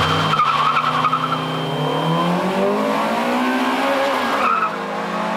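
Two Honda Integras, an SiR and a Type R, launching hard from a standing start, their four-cylinder VTEC engines revving up through first gear with tyre squeal at the launch. The engine note rises steadily, then drops sharply about four seconds in at the upshift and starts climbing again.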